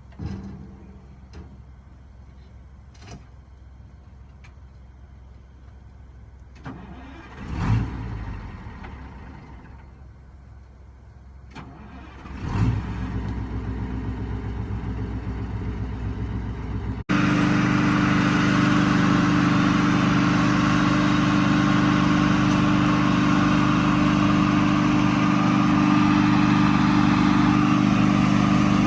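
Versatile tractor's diesel engine: a surge about eight seconds in that dies away, then a second start that catches and settles into running. After a sudden cut about halfway through, the engine runs steadily and much louder.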